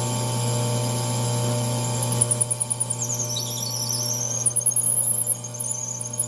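Small Ryobi benchtop drill press running steadily, drilling a pen blank. From about two seconds in, the loudness flutters as the bit cuts, and a high wavering squeal comes and goes.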